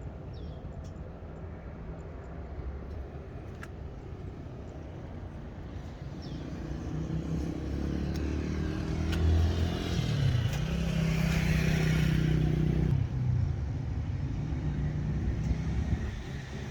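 Mitsubishi Triton's 2.4-litre VGT turbo-diesel engine running. It rises in level and pitch from about halfway through, peaks briefly, then drops back to a steady hum near the end.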